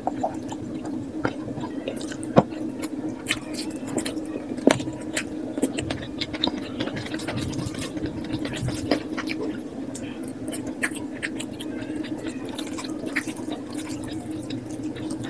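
A person eating, played at double speed: wet chewing and squishing with many quick smacks and clicks, over a steady low hum.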